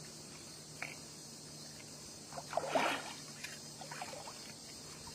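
Water splashing: a short burst of splashing about two and a half seconds in and a few smaller splashes after it, over a faint steady low hum.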